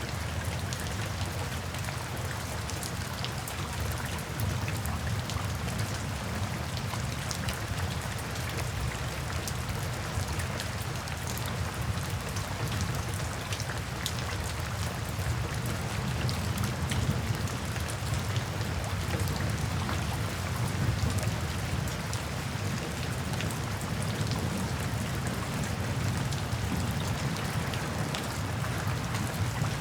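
Steady heavy rain, with individual drops ticking on a surface over a dense even hiss and a low steady rumble underneath.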